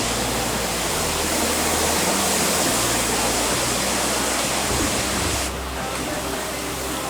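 Strong wind rushing, a loud steady hiss. It drops a little and changes character about five and a half seconds in.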